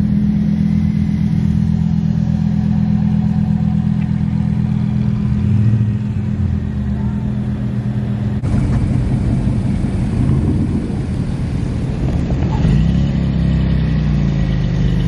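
Car engine idling with a steady note. About eight seconds in, the sound changes abruptly to another engine running, its pitch wavering and rising a little near the end.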